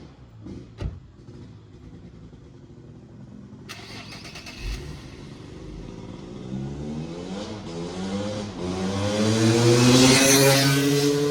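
A 1997 Honda CR250's two-stroke single-cylinder dirt bike engine accelerating, its pitch and loudness climbing steadily over several seconds and loudest near the end. A few sharp clicks come in the first second.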